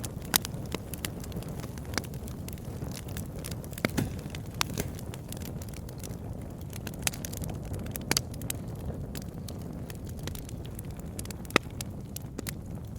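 Campfire burning: irregular sharp crackles and pops of burning wood over a steady low rumble of the flames.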